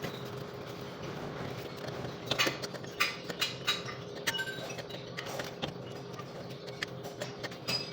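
Hand tools and metal parts clinking and clicking in short, irregular knocks, about a dozen from two seconds in, over a steady low hum.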